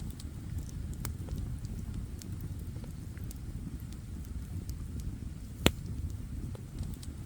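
Wood campfire crackling with scattered sharp pops over a steady low rumble, and one loud pop about two-thirds of the way through.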